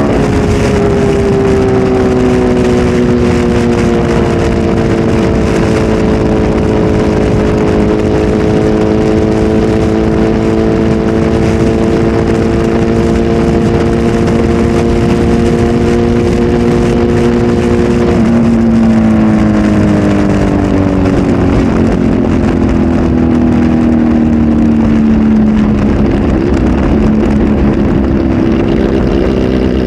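Kawasaki Z H2 SE's supercharged inline-four with a full aftermarket exhaust, running at steady revs whose pitch eases slightly lower. About two-thirds of the way through the revs fall away over several seconds and settle at a lower note near the end, under a steady rushing noise.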